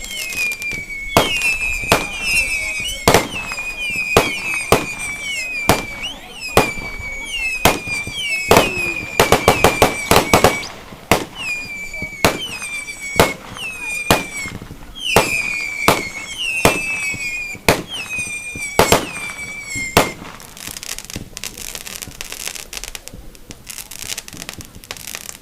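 Fireworks display: sharp bangs about once a second, most with a short whistle that slides down in pitch. A quick flurry of cracks comes about ten seconds in. The whistles stop near the end, leaving a crackling hiss.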